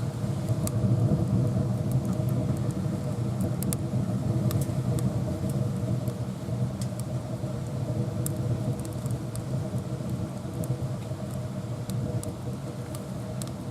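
Wood fire burning in a small wood stove: a steady low rumble with scattered sharp crackles and pops of burning wood.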